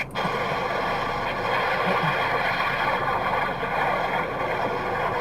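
A steady engine drone with a faint constant whine, cutting in abruptly at the start and holding even throughout.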